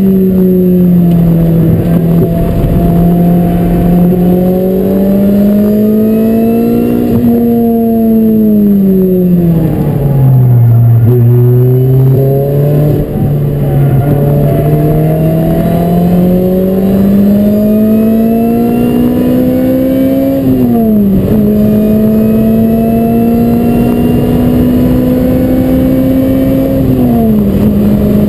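Lotus Elise SC's supercharged four-cylinder engine heard from inside the cabin under hard driving, its revs rising and falling. About a third of the way in the pitch sinks under braking and downshifts, then it climbs again, with two sharp drops at upshifts: one about two-thirds through and one near the end.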